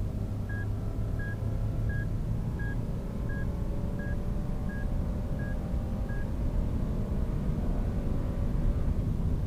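Lexus LX570's 5.7-litre V8 running at speed with a steady road rumble, its pitch slowly gliding. A vehicle warning chime beeps nine times, about every 0.7 s, then stops.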